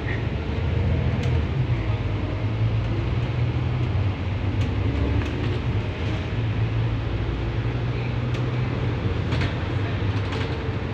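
Double-decker bus under way, heard from inside on the upper deck: a steady low engine drone over tyre and road noise, with a few faint rattles.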